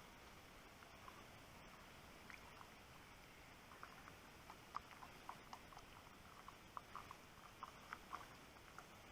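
Near silence: a faint steady hiss with scattered soft short ticks, which come more often from about four seconds in.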